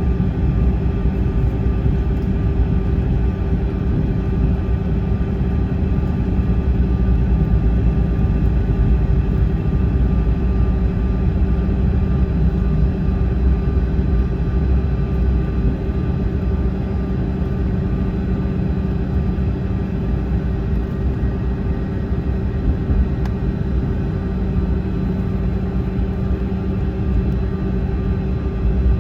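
Airliner engines running, heard from inside the passenger cabin: a steady, loud rumble with a constant hum over it.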